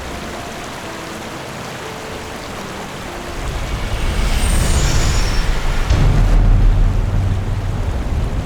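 A road vehicle passing close by: a low engine rumble swells from about three seconds in and fades near the end, with a brief falling hiss, over a steady rushing background.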